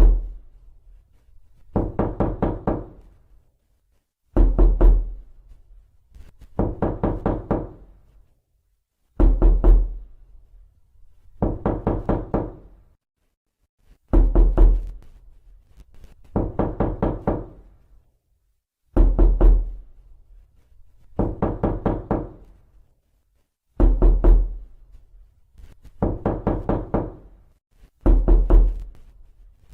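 Rapid knocking on a door in bursts of several quick knocks, each burst about a second long and repeated about every two and a half seconds, heavier and lighter bursts taking turns.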